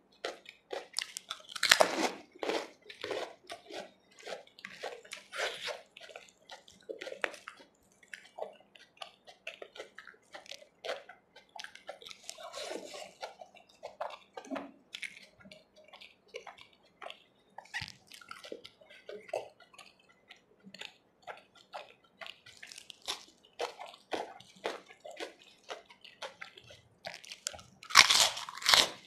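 Close-miked eating: chewing and crunching mouthfuls of chickpea curry and rice topped with crisp fried sev, a steady run of short crunches. The loudest bites come about two seconds in and again near the end.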